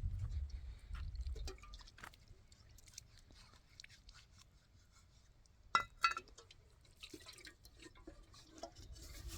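Small scattered clicks and handling noises, with two sharp ringing clinks, like a glass or hard object being knocked, about six seconds in.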